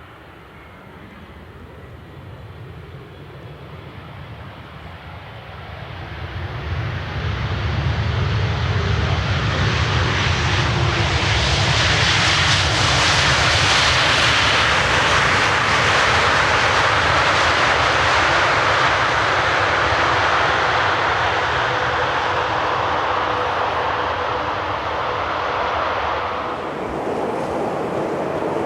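Jet airliner's engines passing close: the roar builds steadily over several seconds, stays loud and hissing through the middle, then eases, with a sudden change near the end.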